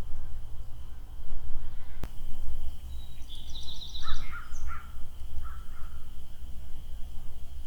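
Wild birds calling near the middle: a quick high trill, then several short, lower call notes, over a steady low rumble on a phone microphone. One sharp click about two seconds in.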